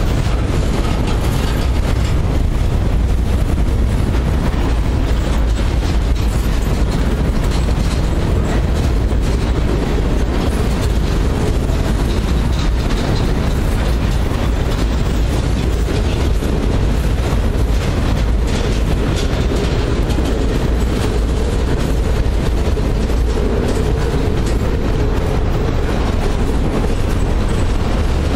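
Freight cars rolling past close by: a steady rumble of steel wheels on rail, with scattered clacks as the wheels cross rail joints.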